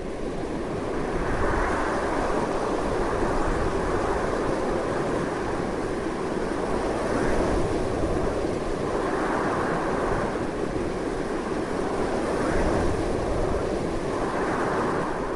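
Strong wind blowing continuously, rising and falling in gusts every few seconds.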